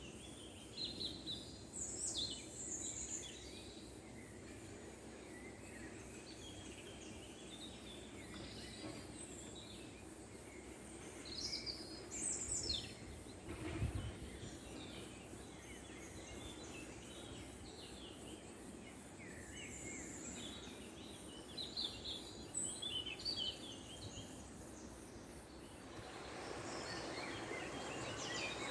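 Small birds chirping and warbling in short scattered calls over a steady background hiss, with a single low thump about halfway through; the background hiss grows louder near the end.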